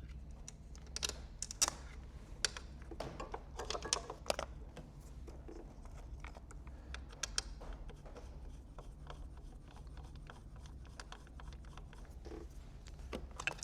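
Scattered light clicks and taps of hand tools on metal, bunched in the first few seconds and sparser after, as the 17 mm bolt holding a large engine ground strap is undone.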